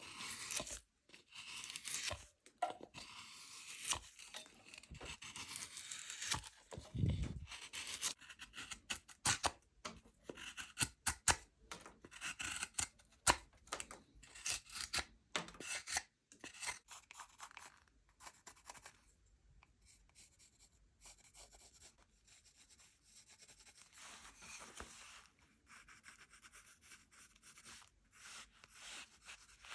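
Carving tool cutting and shaving bird cherry wood in many short scraping strokes, dense and sharper for about the first half, then lighter and softer.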